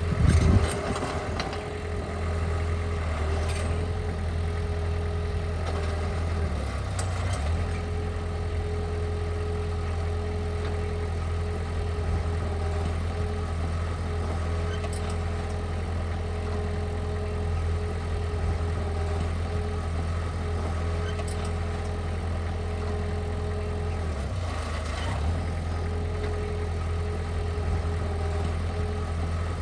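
Heavy construction machine's diesel engine running steadily at low revs, with a few loud clanks in the first second.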